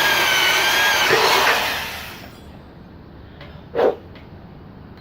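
Electric drill running with a whining motor as it bores a hole through plastic for a hideaway strobe bulb, then stopping about two seconds in. A single short knock follows near four seconds.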